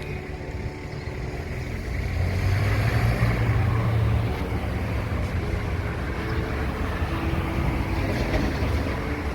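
A motor vehicle engine running with a low rumble, growing a little louder about two seconds in and then easing off.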